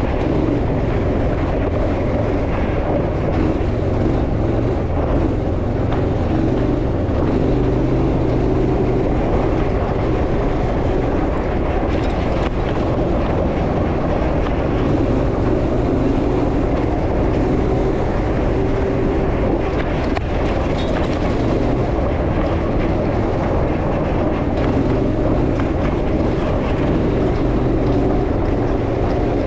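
Off-road vehicle engine running as it drives: a steady, continuous drone with little change in pitch.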